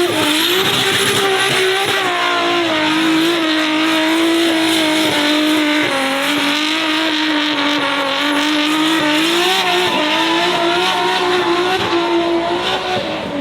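A car engine held at high revs for many seconds, its pitch wavering gently up and down, over steady tyre squeal: the sound of a car drifting with its rear wheels spinning.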